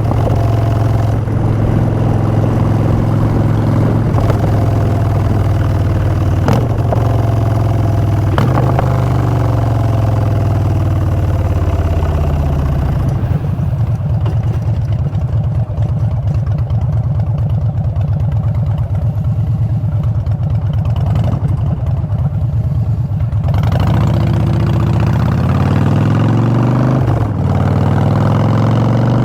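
2016 Harley-Davidson Street Bob's Twin Cam 103 V-twin through Vance & Hines Short Shots exhaust: running under way, then dropping in pitch as the bike slows about ten seconds in, idling low and steady for about ten seconds, and revving up again as it pulls away near the end.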